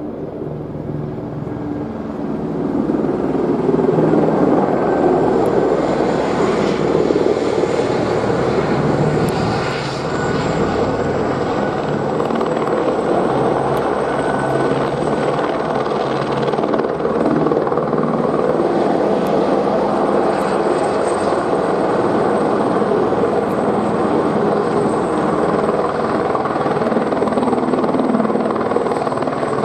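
Helicopter flying close by, its rotor and turbine running loud and steady; the sound swells about three seconds in as it comes nearer and then holds.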